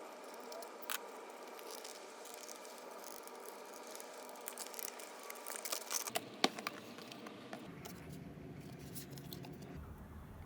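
Packaging and small items being handled: scattered light clicks and rustling of plastic and cardboard, busiest with a sharp click about six seconds in, over a low steady hum.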